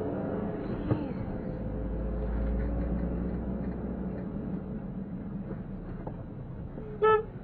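Car driving along, a steady low engine and road rumble. Near the end comes one short, loud pitched tone.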